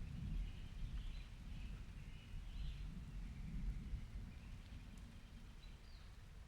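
Faint, regular squeaks from a swing swaying, about one every one and a half seconds, over a low, uneven rumble of wind or distant thunder.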